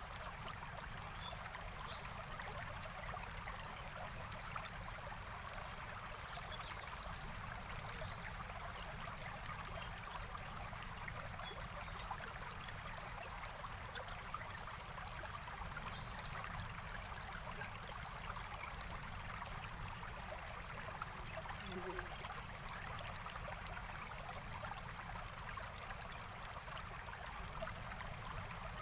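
Forest stream flowing steadily, with a few faint, short bird chirps over the water.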